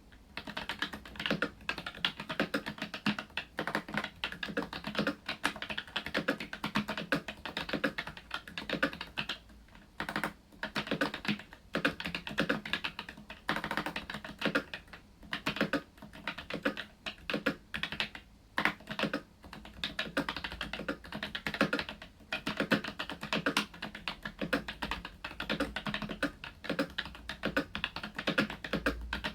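Continuous typing on an ASUS ROG Strix Scope RX mechanical keyboard with ROG RX Red optical switches: a fast, irregular run of key clicks with a few short pauses.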